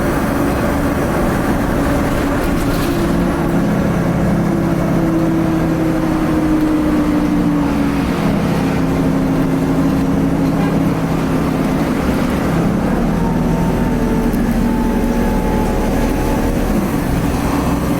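A 2010 Nova Bus LFS articulated city bus with a Cummins ISL diesel engine, running under way and heard from inside. Its steady drone carries several tones that slowly drift up and down in pitch as the speed changes.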